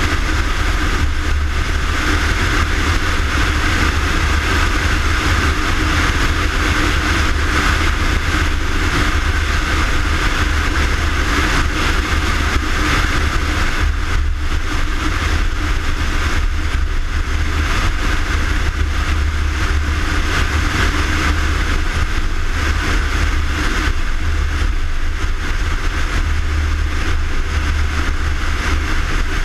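Fire engine running steadily: a loud, even low rumble with a hiss over it, with no siren wail or horn blasts.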